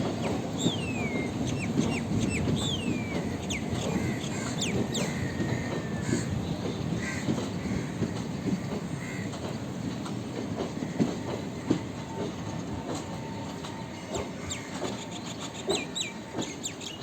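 Express train's coaches rolling along the track with a steady rumble and the clickety-clack of wheels over rail joints. Short wheel-flange squeals slide down in pitch, mostly in the first few seconds, and the whole sound slowly fades.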